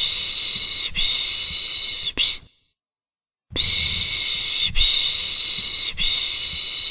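A person shushing a baby with the soothing 'piş piş' sound: long, loud 'shhh' hisses in strokes of about a second, with a pause of about a second midway before the shushing starts again.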